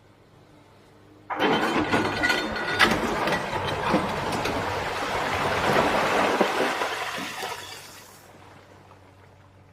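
A sudden rush of loose rock and earth, crashing and clattering for about six seconds before it fades away. Beneath it runs the steady hum of the Komatsu PC350LC excavator's engine.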